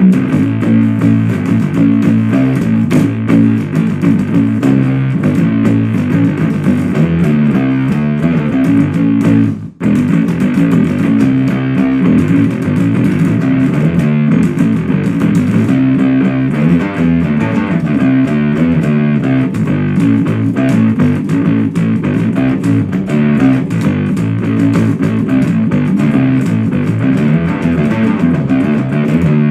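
Fuzz-distorted guitar riffs played through a 77 Fuzz Blender Big Muff–style pedal into an Orange Super Crush 100 amp, the pedal's smoke tone knob at halfway and its tar clipping knob off. The playing breaks off for a moment about ten seconds in, then carries on.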